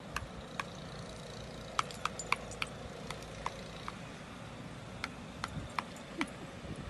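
Scattered light clicks and taps, irregularly spaced, over a steady low background hum.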